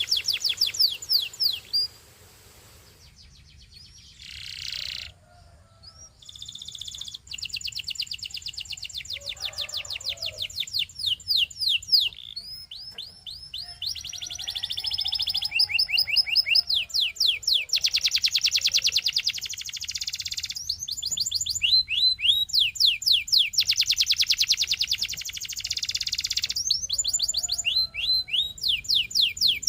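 Canary singing in long, fast trills of rapidly repeated down-slurred notes. The phrases change speed from one to the next, with a lull of a few seconds near the start and steady rolling runs after it.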